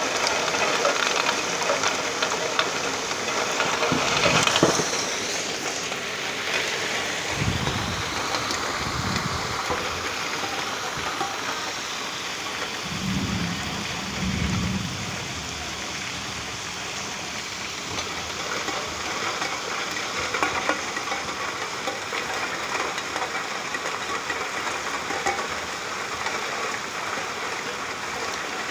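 Steady heavy rain falling, with a few short low rumbles a third and half of the way through.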